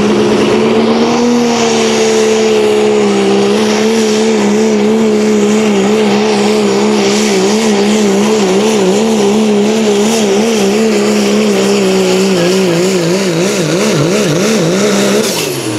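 Competition pulling vehicle's engine running flat out under load as it drags a weight-transfer sled, a loud steady drone. From about three-quarters of the way through, its pitch wobbles rapidly up and down, and near the end it falls away as the run ends.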